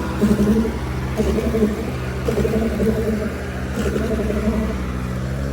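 Diesel tractor engines running hard under load, a steady low drone with a fast pulsing beat, as two tractors chained together pull against each other.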